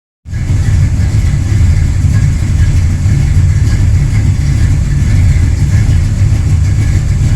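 1970 Pontiac GTO's 455 V8 idling steadily through an old set of Flowmaster mufflers with a crossover pipe, a loud deep rumble.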